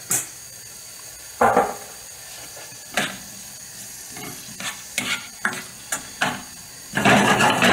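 Mixed vegetables frying in oil in a wok with a low sizzle, while a spoon stirs them, scraping and knocking against the pan every second or so and busiest near the end.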